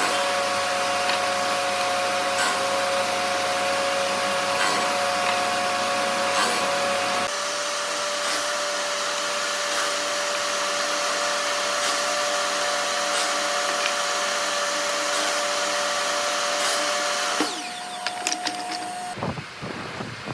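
An electric power tool's motor running steadily, a whine over a hiss, with a slight shift in its tone about seven seconds in. It stops about three seconds before the end, and lighter, uneven handling noises follow.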